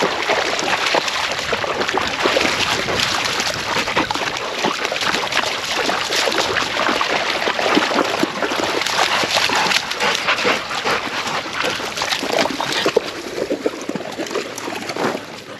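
Dogs splashing and sloshing through water, with a few short dog vocal sounds among the splashes.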